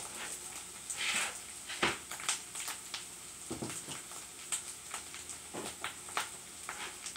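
Corned beef hash frying in oil in a pan: a steady sizzle with scattered crackling pops, and a couple of louder knocks about two and three and a half seconds in.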